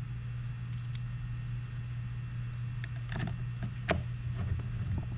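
A few light metallic clicks and taps of hub bolts and an Allen key being handled as the bolts are started by hand into a Onewheel XR's aluminum hub, the sharpest click about four seconds in, over a steady low hum.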